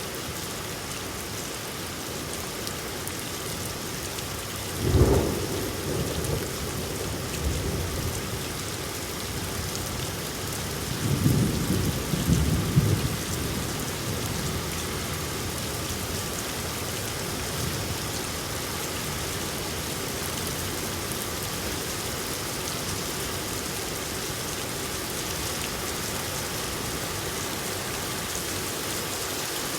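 Steady rain falling, with thunder: a sharp thunderclap about five seconds in and a rolling rumble of thunder from about eleven to thirteen seconds.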